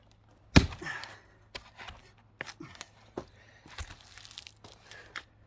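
A sharp axe blow into a log about half a second in, followed by lighter knocks and cracking of the wood as the log is worked toward splitting.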